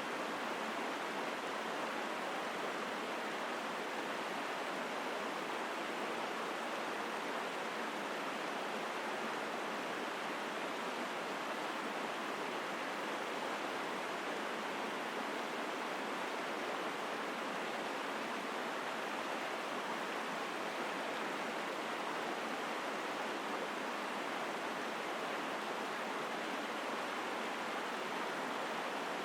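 Mountain stream rushing over rocks in a steady, strong flow of water.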